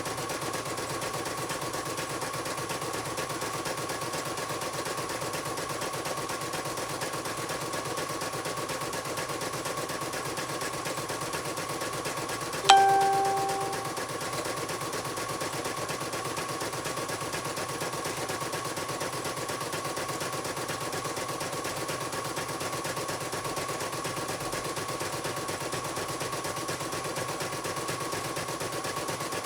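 Computerized embroidery machine stitching steadily, its needle bar hammering in a fast, even rhythm over a constant whine. About halfway through, one short, loud electronic beep sounds and fades within a second or so.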